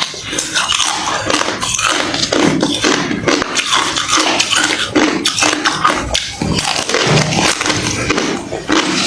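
Close-miked crunching and chewing of hard refrozen crushed ice, a dense run of crisp cracks and crackles.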